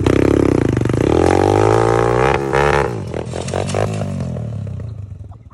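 Dirt bike engine revved: the pitch climbs for a second or two, then falls back and settles toward an uneven idle near the end.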